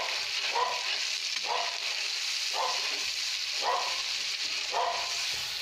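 Spiced onion-ginger-garlic masala sizzling in a kadhai just after a splash of water, with a steady hiss. A slotted spatula stirs and scrapes through it about once a second.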